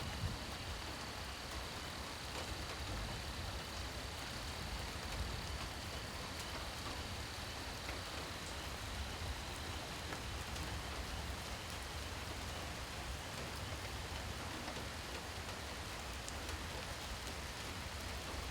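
Steady rain falling: an even hiss of rain with scattered single drops ticking. A faint, thin high tone sits over it and fades out about eight seconds in.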